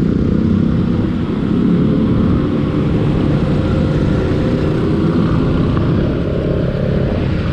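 Motorcycle being ridden, most likely a Kawasaki Ninja 300 parallel-twin, its engine running at a steady pace. The sound is a loud, even low rumble with no revving up or down.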